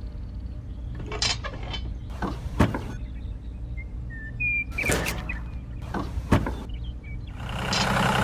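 Handling noise: a few separate clicks and knocks of a hand working a small wooden model windmill, over a low hum. Near the end a louder noisy sound with two steady tones starts.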